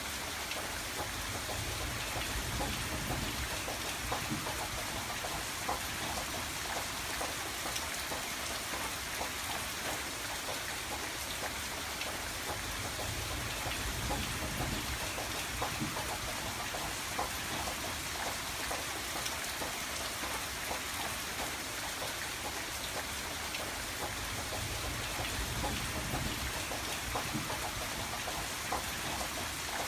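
Steady rain falling on a window, with many small drop ticks throughout. A low rumble swells and fades about three times underneath.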